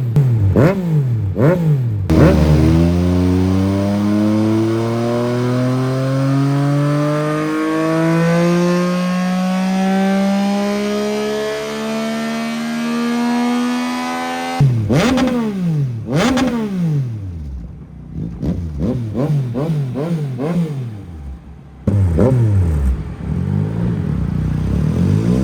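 2022 Yamaha MT-09's three-cylinder engine with an Akrapovic exhaust, run on a dyno. Quick throttle blips come first, then a full-throttle pull with the revs climbing steadily for about twelve seconds before being cut off sharply. Several more sharp rev blips follow.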